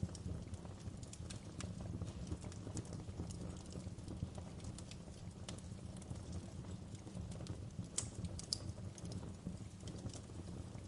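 Wood fire crackling in a fireplace: a steady low rumble of flames with irregular sharp pops and snaps, a couple of louder pops near the end.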